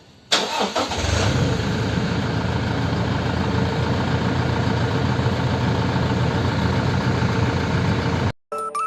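Toyota Land Cruiser Prado engine starting about a third of a second in, then settling into a steady idle through its exhaust fitted with a muffler cutter. The sound cuts off abruptly near the end.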